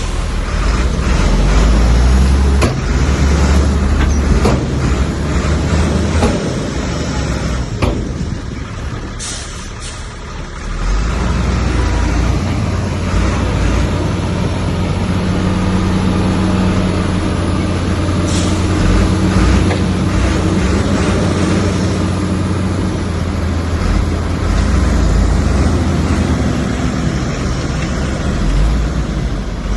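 Diesel engine of a Komatsu bulldozer working, with several knocks in the first eight seconds. The engine drops back briefly about ten seconds in, then runs steadily under load.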